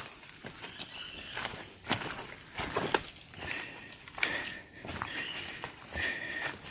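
Forest insects droning with a steady high whine, with scattered clicks and rustles of footsteps in the undergrowth.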